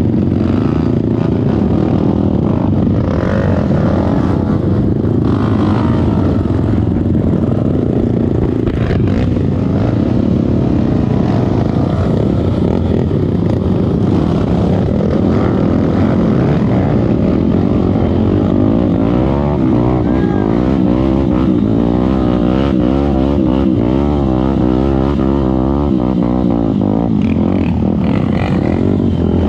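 Trail motorcycle engine running continuously under load, its revs rising and falling over and over in the second half as the throttle is worked.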